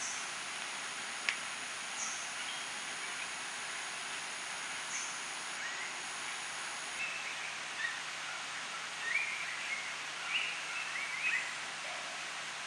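Tropical rainforest ambience: an even, steady hiss of the forest with a thin high steady tone that stops about halfway through. Short bird chirps come several times in the second half.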